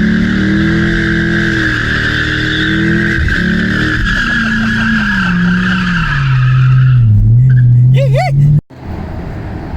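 Car doing a burnout: the engine runs hard under a steady tyre squeal, then the revs fall away over a few seconds. The sound cuts off abruptly near the end, leaving a quieter rumble.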